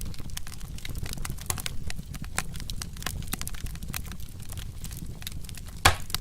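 Wood fire crackling with many small sharp pops over a low steady rumble, and one louder pop near the end.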